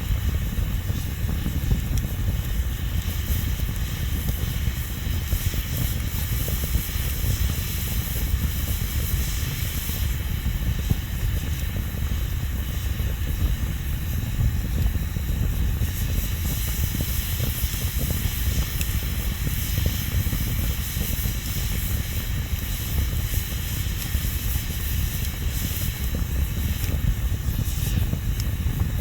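Wood bonfire burning with a steady low rumble and a constant hiss.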